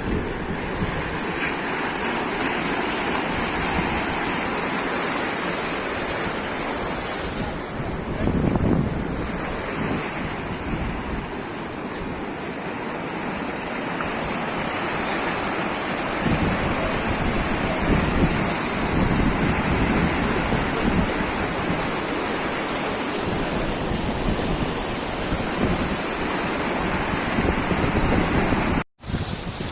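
Floodwater rushing steadily, with wind buffeting the microphone. The sound cuts out for an instant near the end.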